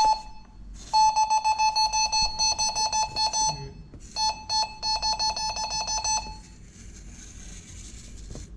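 Handheld wall detector beeping rapidly in a steady high tone, in two long runs with a short break between, as it is passed over the wall to find the buried cable conduit.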